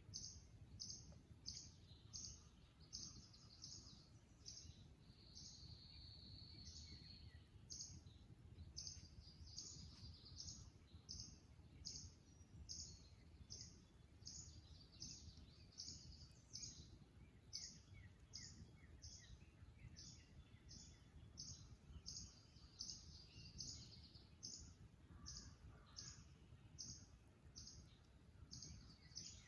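Faint marsh dawn chorus: short, high calls repeated steadily about twice a second, with other birds singing over them and a low steady rumble underneath.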